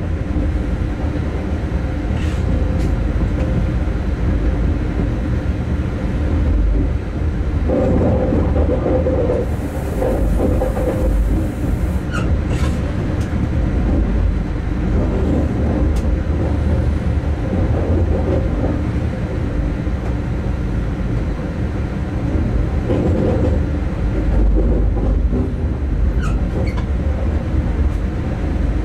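Steady rumble of a locomotive running along the track, with wheels on rails and a few short clicks scattered through. A brief hiss comes in about ten seconds in.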